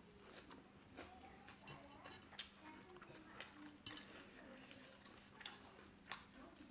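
Faint eating sounds at a meal: about six sharp clicks and taps scattered through, over a faint steady hum.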